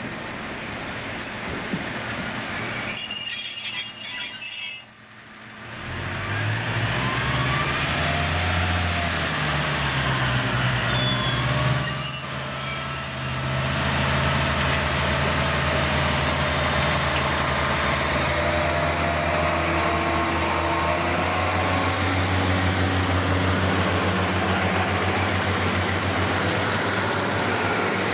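A diesel train with short high wheel squeals in the first few seconds, then, after a sudden drop at about five seconds, a diesel multiple unit's engine running loudly. Its pitch rises and falls before settling into a steady drone.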